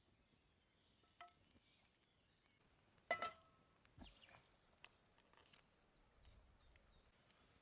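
A few metal cookware clinks, each with a short ring, over near silence. The loudest comes about three seconds in, followed by a soft knock.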